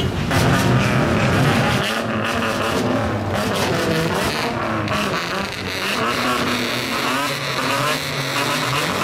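Modified show cars driving out slowly past a crowd, their engines revving up and down, with crowd chatter.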